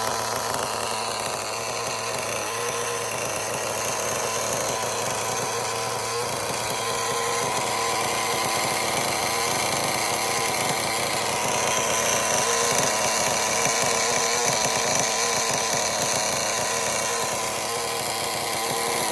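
Thunder Tiger PRO-50BK two-stroke glow-fuel model engine running steadily, its pitch shifting a little about twelve seconds in and again near the end.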